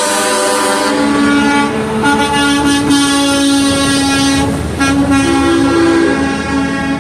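Truck air horns blowing in long held blasts, several tones sounding together and shifting in pitch a few times.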